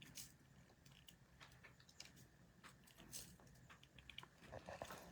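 Near silence with a few faint, scattered small clicks from beads and craft wire being handled.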